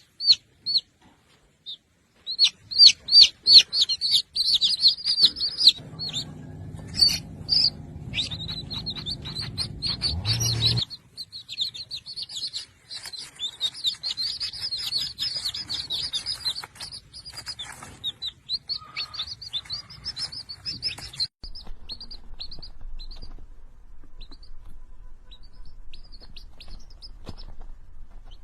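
Small birds chirping in quick runs of short, high chirps, thinning to occasional chirps in the last few seconds.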